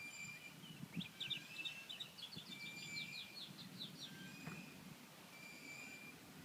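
Songbirds: a rapid trill of about a dozen repeated high notes from about one to four seconds in, among short, thin whistled calls, over a faint low background rumble.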